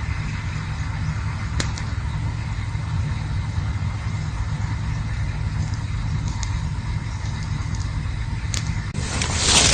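Campfire burning with a steady low rumble and hiss, broken by a few sharp crackles; a louder rushing hiss swells near the end.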